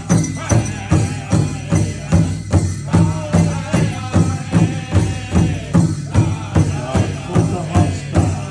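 Ojibwe drum song: a drum struck in a steady, even beat with voices chanting over it.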